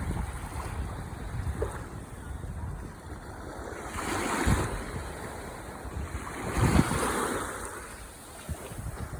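Ocean waves breaking and washing ashore, with two louder surges about four and seven seconds in. Low wind rumble on the microphone runs underneath.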